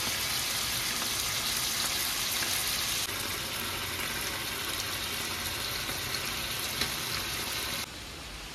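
Chicken livers frying in a pan, a steady sizzle that steps down in level about three seconds in and again near the end.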